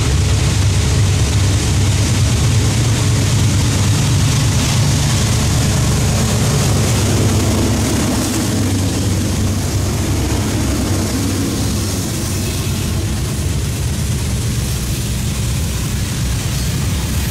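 Norfolk Southern freight train passing close by. The diesel locomotives' engines run loudly for roughly the first half, then the sound gives way to the steady rumble and clatter of hopper cars rolling over the rails.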